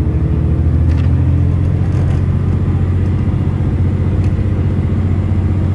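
Steady drone of the JR Kyushu Futatsuboshi 4047 diesel railcar under way, heard from inside the passenger car: engine hum with a continuous running rumble.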